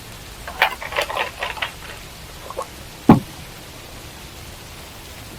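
A run of quick clicks and taps, then a single heavier thump about three seconds in, over steady background hiss.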